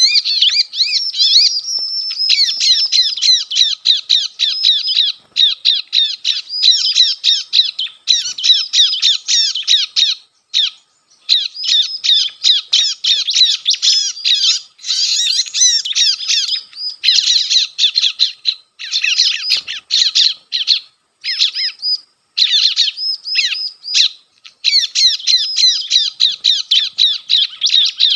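Lure recording of ciblek (bar-winged prinia) calls played through a speaker to draw wild birds: rapid, harsh, high chirps in dense runs, with a few short breaks.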